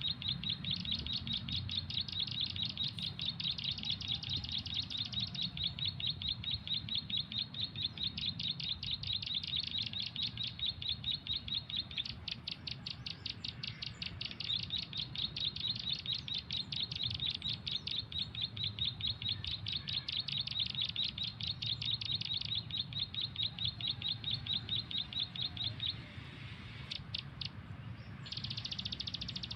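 Bird call played from a phone's MP3 as a lure for trapping: fast, even chirps repeated about five a second, breaking off for a moment twice, with a low rumble underneath.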